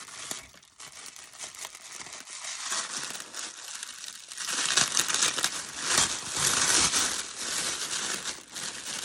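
Paper wrapping crinkling and tearing as a package is unwrapped by hand, soft at first and louder and busier from about halfway through.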